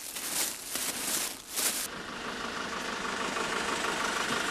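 Noisy handling sounds for about the first two seconds, then a vehicle engine idling steadily.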